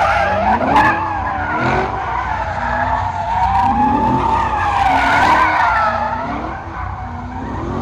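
A car doing donuts, its tyres squealing continuously with the pitch wavering up and down, and the engine revving underneath.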